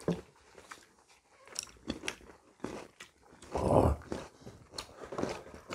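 People eating at a table: chewing and crunching bites of sweet-persimmon kkakdugi and noodles, with scattered small clicks, and one louder, longer eating sound about three and a half seconds in.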